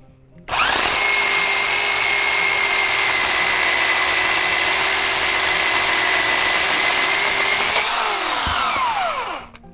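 Corded electric pole chainsaw (DekoPro 8 Amp, 10-inch bar) running at a steady high whine while cutting a branch, resting on it under its own weight. Near the end the trigger is let go and the whine falls in pitch as the motor and chain coast to a stop.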